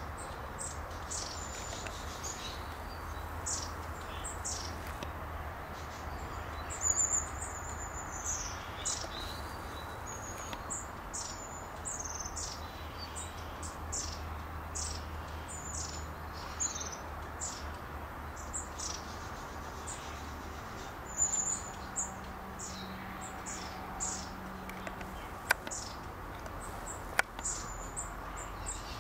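Small birds chirping: many short, high, falling calls, several a second, over a faint steady background hiss. Two sharp clicks near the end.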